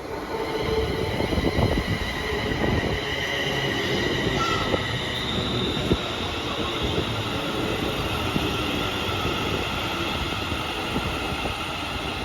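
Six-carriage Class 380 electric multiple unit moving along the platform: a steady high whine over the rumble and clatter of its wheels on the rails.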